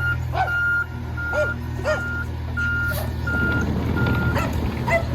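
Garbage truck's reverse alarm beeping steadily at one pitch, about one beep every 0.7 s, stopping a little after four seconds in, over the low, steady running of the Mack LR rear loader's diesel engine. A run of short chirps sounds alongside the beeps.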